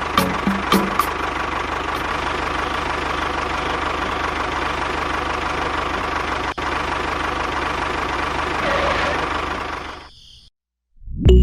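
A small motor running steadily, with a few sharp clicks in the first two seconds. It cuts off suddenly about ten seconds in.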